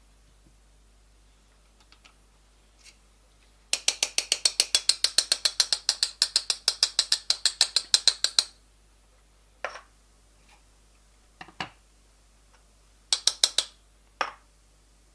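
Timemore manual coffee grinder giving a run of rapid, even ratchet-like clicks, about six a second for some five seconds. A few single knocks follow, then a shorter run of clicks near the end.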